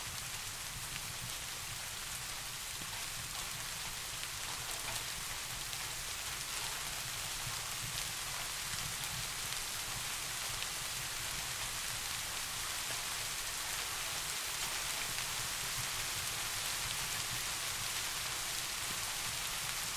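Steady rain falling in a continuous hiss, with a low steady rumble underneath.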